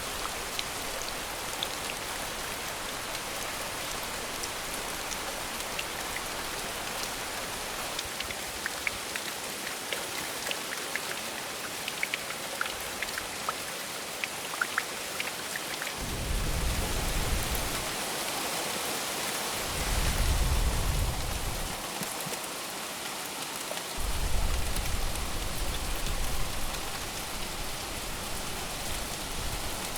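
Steady rain falling, with close drops ticking sharply now and then. From about halfway in, low thunder rumbles three times, each lasting a couple of seconds.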